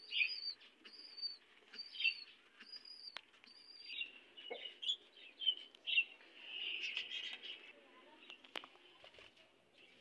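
A small bird calling: a run of short, high, evenly spaced chirps, about one every 0.8 s, giving way after about four seconds to busier mixed twittering. A single sharp tap comes near the end.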